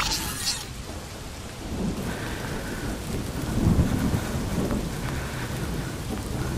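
Steady hiss of rain with low rumbling noise on a moving action camera's microphone, swelling around two seconds in and again near four seconds.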